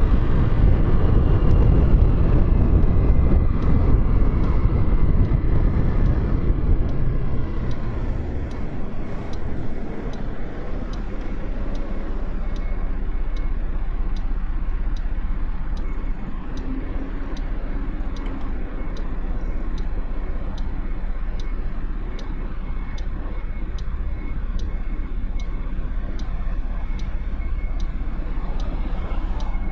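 Motorcycle ride with engine and wind noise, the engine note falling as the bike slows over the first several seconds, then running at a low, steady idle. While idling, a regular faint ticking repeats about twice a second.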